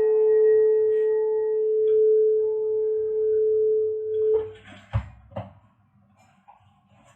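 Singing bowl sustaining one steady ringing tone for about four seconds, then stopping abruptly. Two or three faint knocks follow.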